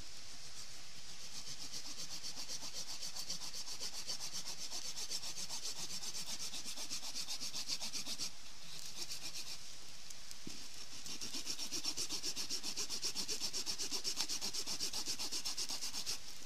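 Rapid, even scraping strokes, with a short pause about halfway through and a little louder afterwards, over a steady hiss.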